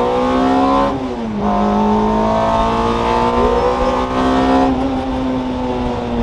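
Toyota 2ZZ-GE 1.8-litre four-cylinder in an MR2 Spyder pulling hard under acceleration. The revs climb, drop with an upshift about a second in, then climb steadily again before the note softens near five seconds in. It is heard from inside the open-top cabin.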